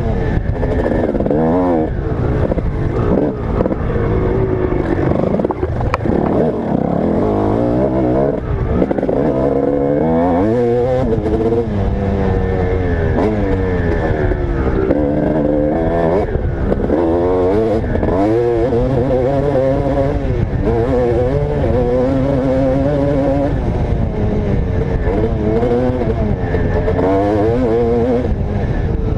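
Motocross dirt bike engine under hard riding, its pitch climbing and dropping over and over as the throttle is opened and closed through the gears.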